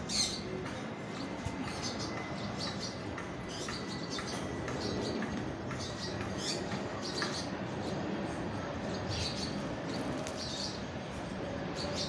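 Short, high bird chirps and squawks, repeated every second or so, over a steady background hum.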